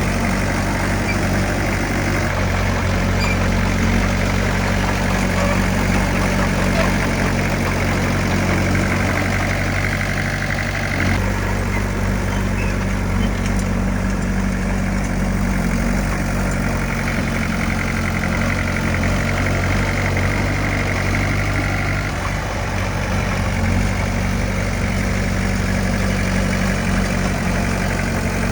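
Heavy diesel engine of earthmoving machinery running steadily, its pitch shifting a little twice.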